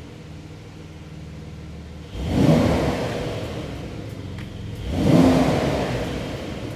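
2022 Porsche 911 (992) Carrera GTS twin-turbo flat-six idling, then revved twice, a couple of seconds apart. Each rev rises sharply and falls back to idle.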